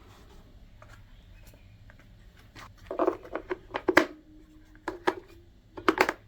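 Sharp clicks and short scraping snips from small craft parts being handled and cut, in clusters about three seconds in, around four and five seconds, and again near the end.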